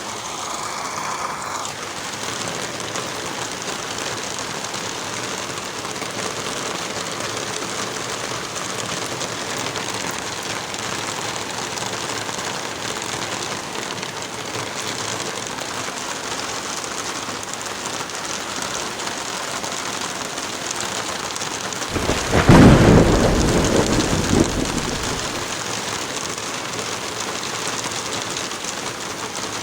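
Heavy rain falling steadily. About three quarters of the way through, a loud clap of thunder breaks in and rumbles away over a few seconds.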